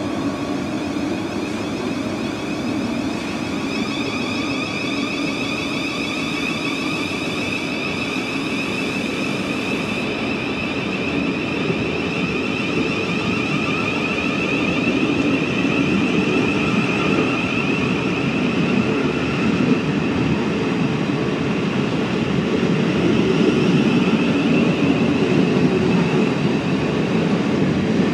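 A Thameslink Class 700 electric train moving along the platform, giving a steady electric whine over the rumble of its wheels. It grows gradually louder through the second half.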